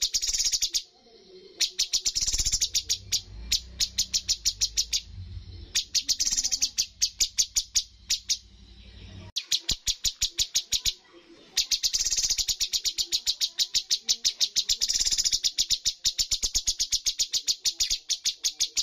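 Cucak cungkok bird calling in long, fast runs of short, sharp, high notes, about seven a second, broken by brief pauses. A low hum lies under the first half and stops about halfway through.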